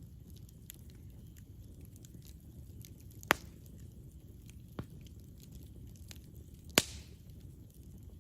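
Campfire burning with a low steady rumble and scattered small crackles, and two loud sharp pops, a little past a third of the way in and again near the end, with a smaller pop between them.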